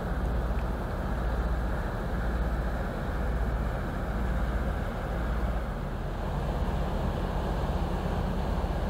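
Low, steady drone of an inland cargo or tanker ship's diesel engine passing on the river, with a slow throb about once a second.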